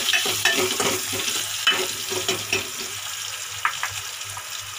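Metal ladle stirring and scraping onion, green chillies and curry leaves frying in oil in a metal pot, over a steady sizzle. The stirring stops about three seconds in, leaving the sizzle with a couple of last taps.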